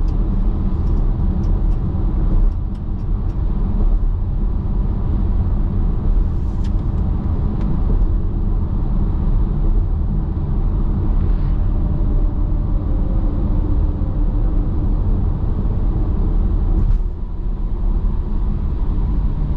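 Steady low road and engine rumble inside a car driving at highway speed, with dips in level about two and a half seconds in and near the end.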